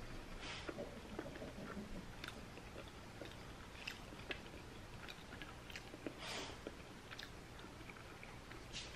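Faint close-up chewing of a bite of seaweed-wrapped cauliflower sushi roll, with scattered small mouth clicks and a few soft swishes.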